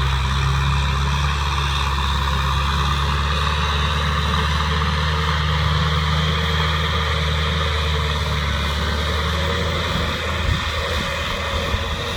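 Kubota M6040 tractor's diesel engine running with a steady note; about ten seconds in, the steady note breaks up and becomes rougher.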